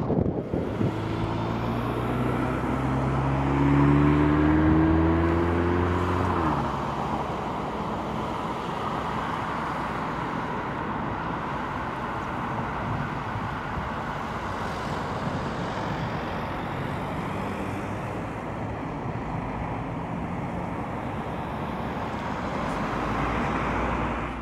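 A car engine accelerating, its pitch rising steadily for about six seconds before it cuts off abruptly, followed by steady road and traffic noise.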